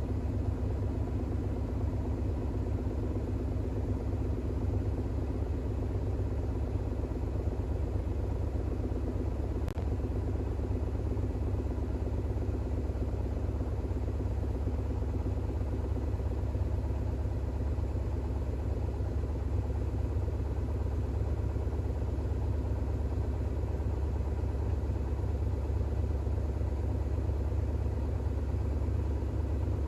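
Bosch WAX32GH1 front-loading washing machine in an intermediate spin with an unbalanced load of towels, the drum turning at speed with a steady low hum.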